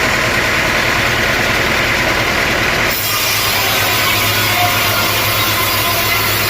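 Sawmill machinery running steadily, a loud engine-driven hum with a noisy hiss over it, of the kind heard while a log is being sawn. The sound changes abruptly about three seconds in.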